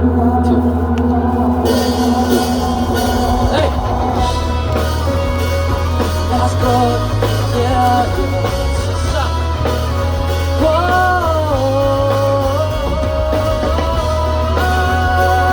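Amplified pop-rock band music playing the instrumental intro of a song, with a steady bass and a melody line that swells and glides about two-thirds of the way through, before any lyrics are sung.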